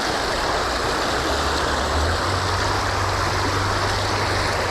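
Creek water rushing steadily over a small stream running high, with a low rumble joining in about a second in.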